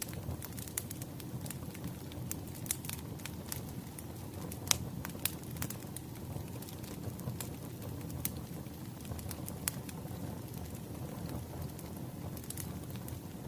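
Wood fire crackling: a steady low rumble with irregular sharp pops and snaps, the loudest about four and a half seconds in.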